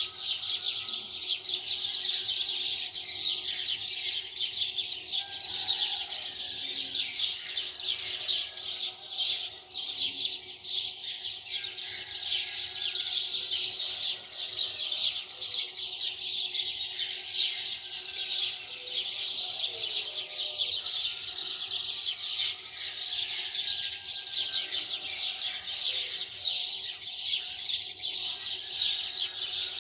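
Many small birds chirping together, a dense, unbroken chorus of quick high chirps.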